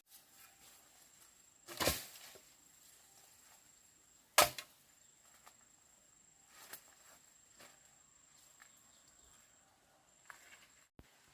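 A few sharp knocks or strikes at irregular intervals, the loudest about four seconds in, over a faint steady high-pitched tone.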